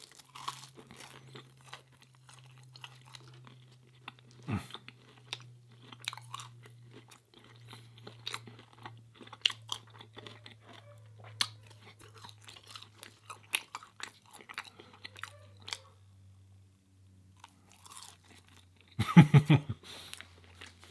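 Close-up eating sounds: a person chewing and crunching food, with many short wet mouth clicks. Near the end comes a short, louder pitched burst, a dog howling.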